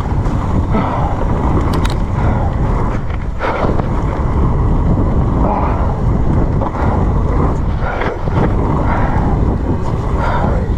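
Wind buffeting the camera microphone: a loud, steady low rumble with some rustling over it.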